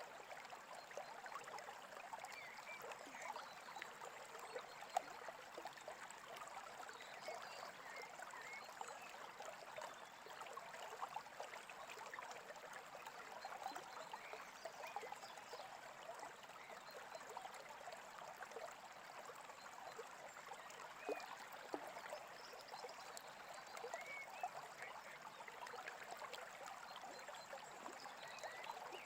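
Small stream trickling and gurgling steadily, with occasional faint short bird chirps.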